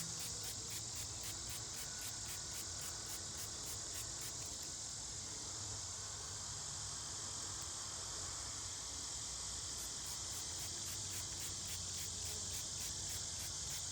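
Chorus of insects chirping: a steady high drone with a pulsing chirp about three to four times a second over it, which stops for several seconds midway and then starts again.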